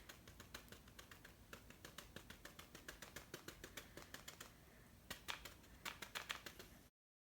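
Paintbrush tapping lightly and repeatedly on paper, dabbing on tree leaves: a quick run of faint ticks that cuts off suddenly near the end.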